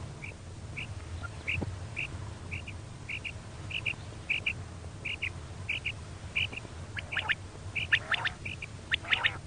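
Female quail call: short, high 'kirik' notes, some in pairs, repeated about every half second over a low hum. From about 7 seconds in, louder, harsher squawking calls join in.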